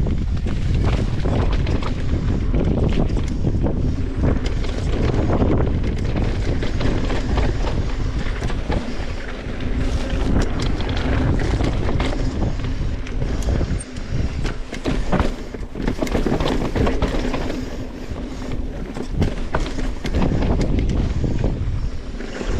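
Wind buffeting the microphone of a mountain bike riding down a rocky dirt singletrack, with the tyres rolling over dirt and stones and the bike clattering and knocking over bumps.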